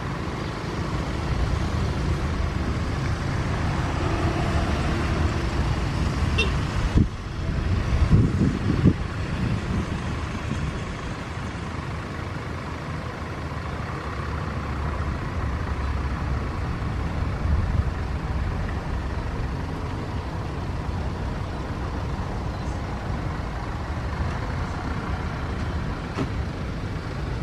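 Steady low engine rumble, with a click and a short drop about seven seconds in, then a couple of louder surges just after.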